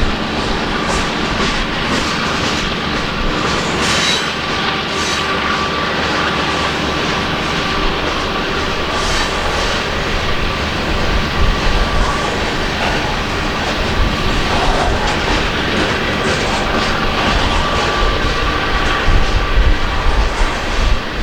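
Coal train's cars rolling steadily past, wheels clicking over rail joints with a faint thin wheel squeal above the rumble.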